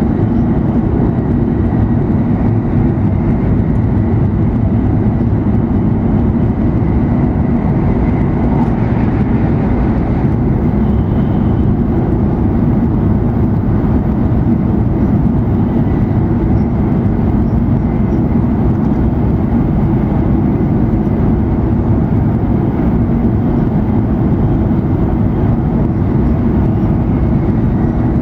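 Interior running noise of an E7 series Shinkansen at high speed, heard from inside the passenger car: a steady, even rumble, with a faint high tone over the first several seconds.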